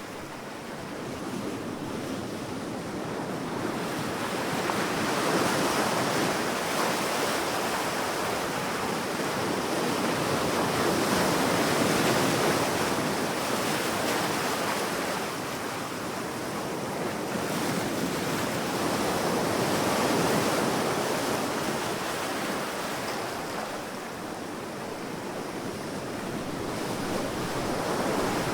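Sea waves breaking and washing up on a sandy beach, a continuous surf that swells and ebbs every several seconds, with some wind noise.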